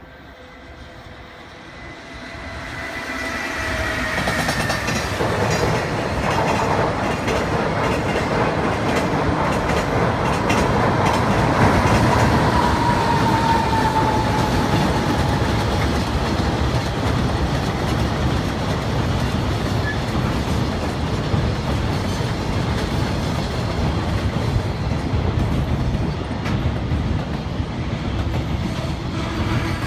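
Electric-hauled freight train passing over a railway bridge: it builds up over the first few seconds into a steady heavy rumble with wheel clatter from the wagons. A whining tone falls in pitch early on and another about midway.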